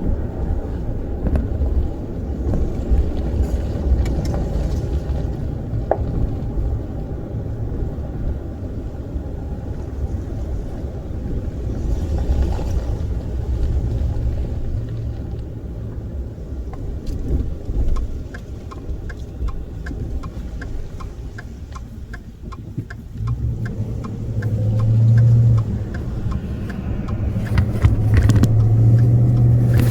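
Steady low rumble of a motor vehicle running, with a short run of even ticks about two a second a little past the middle and a louder low hum swelling up near the end.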